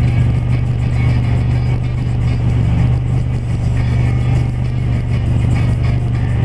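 A car engine idling while stopped, heard from inside the cabin as a steady low hum.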